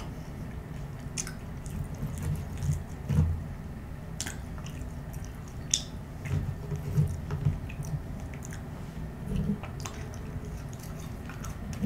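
Close-miked chewing of french fries: soft, wet mouth sounds in irregular bursts, with scattered sharp clicks as fries are picked from the pile.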